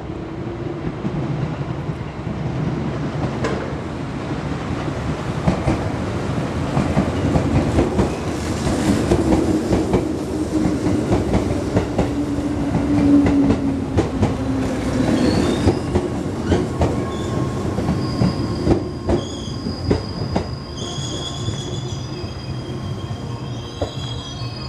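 JR Central 211-series electric train of two three-car sets pulling in and braking: the wheels click over the rail joints as the cars pass, then high wheel squeals set in near the end as it slows to a stop.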